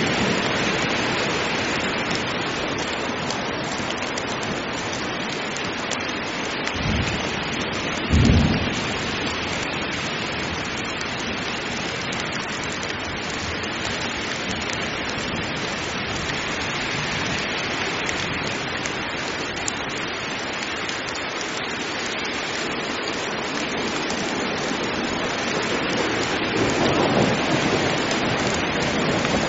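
Heavy rain falling steadily in a thunderstorm. Two short low thunder thumps come about seven and eight seconds in, and thunder rumbles up again near the end.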